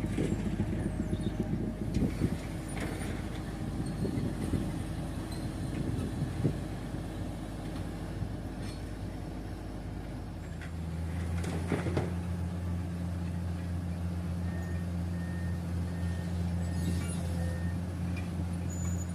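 Heavy diesel engine running steadily, its pitch and tone shifting about halfway through, with a few sharp knocks and clanks over it.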